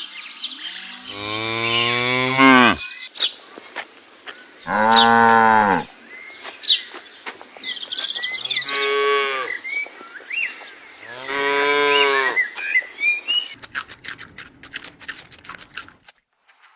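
A cow mooing four times, each call lasting one to two seconds with pauses between. From about 13.5 seconds in, a rapid run of short clicks or scraping takes over.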